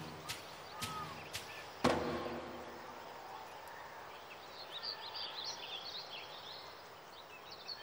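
Outdoor natural ambience with small birds chirping: a run of high chirps about five seconds in, after a few sharp clicks and a louder knock near the start.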